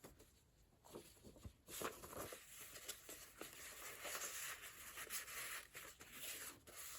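Faint rustling of paper pages being turned and handled in a handmade junk journal. It starts about two seconds in, after a few soft taps.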